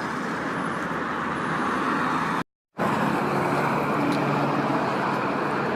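Steady road traffic noise, cut off by a moment of silence about two and a half seconds in before it resumes.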